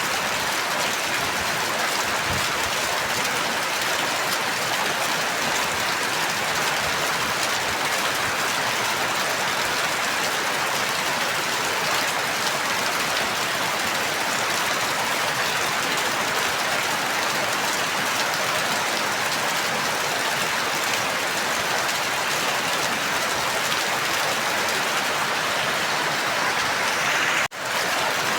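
Steady heavy rain falling, an even dense patter; a brief drop-out near the end, where the recording loops.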